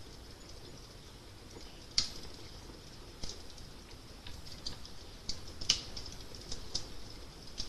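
Wood fire crackling: irregular small snaps and pops, with two louder pops about two seconds in and near six seconds, over a faint low rumble.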